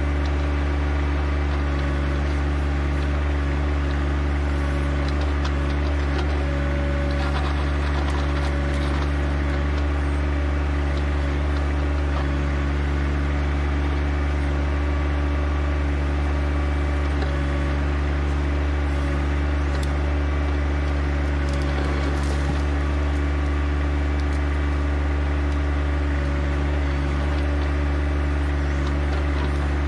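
John Deere 1025R compact tractor's three-cylinder diesel running steadily at a constant speed, with a few scrapes and knocks from the backhoe working about five seconds in and again around twenty seconds in.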